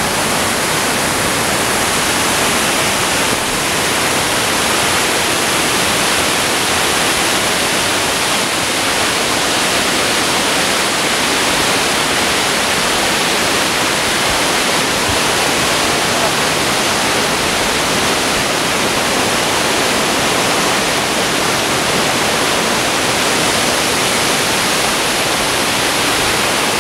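A waterfall: falling water making a loud, steady, unbroken rush.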